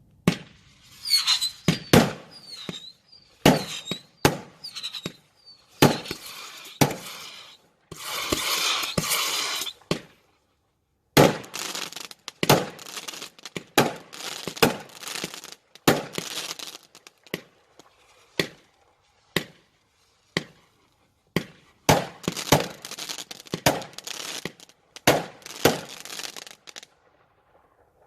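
Consumer fireworks going off: a rapid series of sharp bangs with short whistles in the first few seconds and a stretch of dense crackling about eight seconds in.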